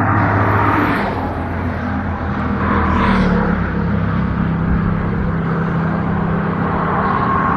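A motor vehicle's engine running close by, its low hum dropping in pitch about three seconds in.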